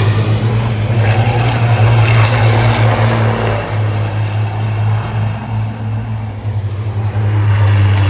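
Racing trucks' engines running hard on the circuit, the noise swelling and fading as trucks go by, over a steady low hum.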